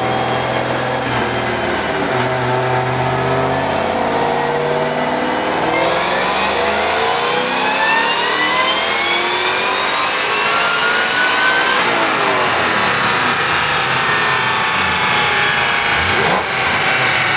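Kenne Bell twin-screw supercharged 5.0 Coyote V8 of a 2011 Roush Mustang GT on a chassis dyno. It runs at part throttle, then makes a hard pull from about six seconds in, with engine note and blower whine rising in pitch. It lets off about twelve seconds in and coasts down with the pitch falling, and a single sharp crack comes near the end.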